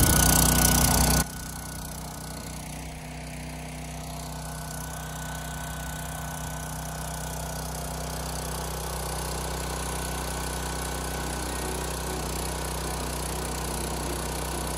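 A small engine running steadily at idle. It is louder for about the first second, then drops suddenly to a lower, even level.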